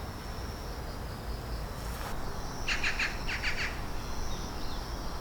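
A bird chirping in two quick series of short notes about halfway through, over a steady high insect-like trill and a low outdoor rumble.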